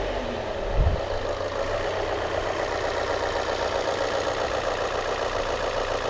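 Volvo S40 engine idling steadily just after starting, a brief low thump about a second in. It runs evenly, with the air leak at the intake vacuum hose sealed and a replacement mass air flow sensor fitted.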